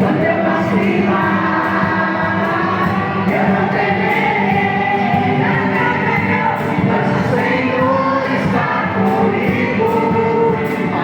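Religious music: a group of voices singing a hymn over a steady instrumental accompaniment.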